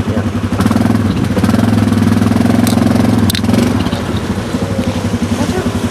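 ATV engine running steadily; it gets louder under throttle about half a second in, holds for about three seconds, then eases back.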